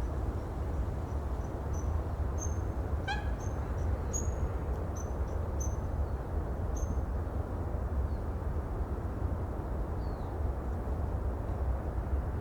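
Steady wash of the sea with a deep rumble under it. Short high bird chirps sound over it, many in the first half, with one brief harsher call about three seconds in and a few faint falling chirps later.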